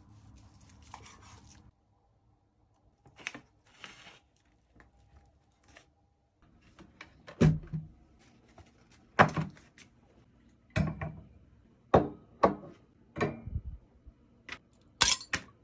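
A series of sharp knocks with a deep thud under each, about seven of them, irregularly spaced through the second half. Fainter clicks and rustling come before them.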